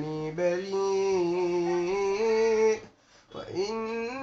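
Unaccompanied Quran recitation: a single voice holds long, melodic drawn-out notes with gliding pitch, stops for a short breath about three seconds in, then starts the next phrase.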